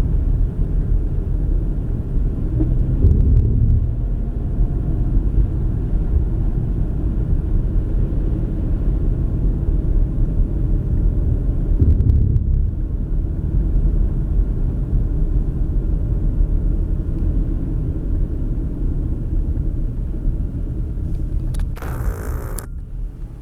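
Steady low rumble of a car driving, with a short brighter rush near the end.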